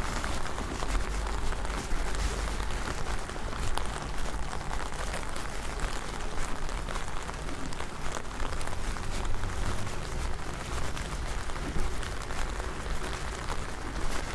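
Heavy rain falling steadily: a dense hiss of rain with many close individual drops ticking, over a low rumble.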